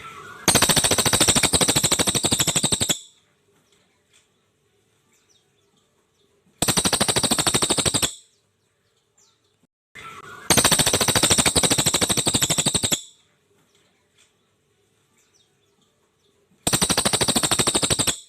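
Brown crested jay (cililin) giving its fast, dry, machine-gun-like rattle in four bursts: the first and third about two and a half seconds long, the second and fourth about a second and a half, with quiet gaps between.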